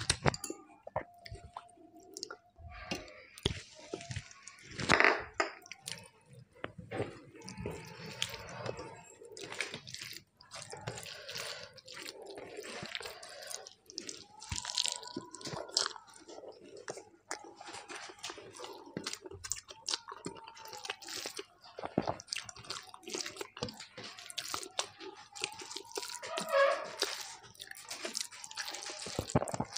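Wet chewing and lip-smacking of someone eating rice by hand, with many short sharp smacks and clicks, mixed with the soft squish of fingers working rice on a steel plate.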